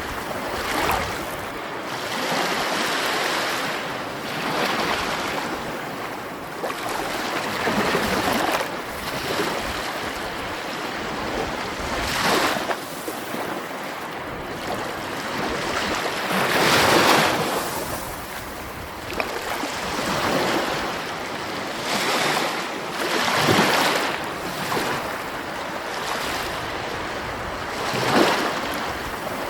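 Sea waves breaking: a continuous wash of surf that swells and falls every few seconds, with several louder crashes.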